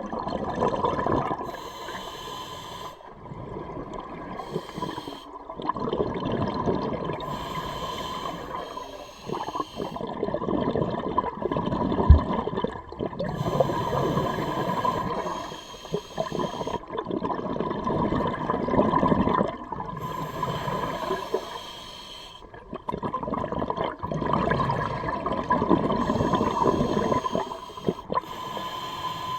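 Scuba diver breathing through a regulator underwater: a hissing inhale, then a rush of exhaled bubbles, repeating in a slow, regular rhythm.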